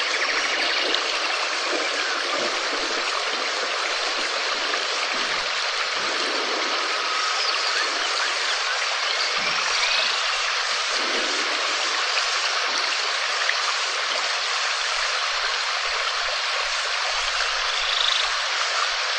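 Steady rain falling in an even hiss, with faint chirping calls of small creatures now and then on top.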